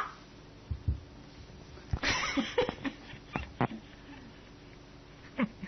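Small dog barking once, a short sharp bark about two seconds in, followed by a few sharp clicks.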